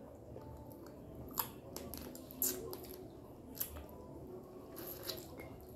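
Quiet eating sounds of two people chewing chicken wings and pasta, with a handful of short, sharp clicks scattered through.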